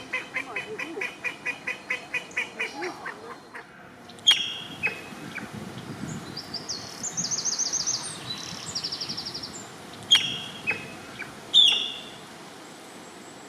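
Birds calling: first a fast run of repeated calls, about five a second, that stops about three and a half seconds in. Then come scattered chirps and trills, with three loud sharp calls.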